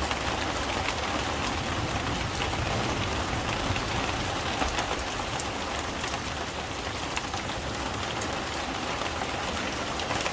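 Steady heavy rain falling, with scattered sharp ticks of single drops striking nearby.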